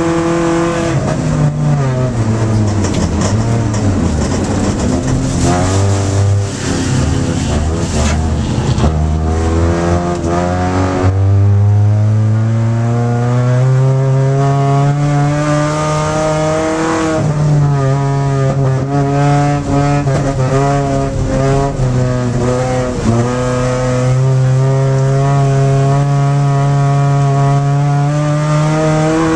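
Race car engine heard from inside the cabin under hard driving. The pitch drops and wavers at first, climbs sharply about a third of the way in, then holds high with two short dips.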